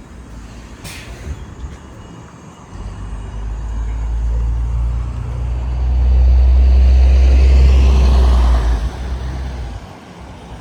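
A motor vehicle's low engine rumble that builds up over several seconds, is loudest for a few seconds, then drops away sharply about a second before the end.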